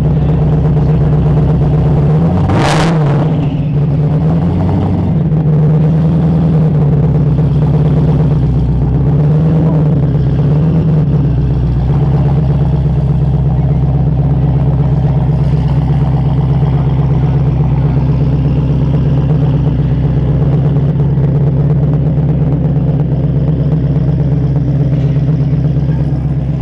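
Twin-turbo and supercharged engine of a 1965 Mustang fastback restomod running at a loud, steady idle, revved lightly twice in the first ten seconds. A single sharp crack comes about three seconds in.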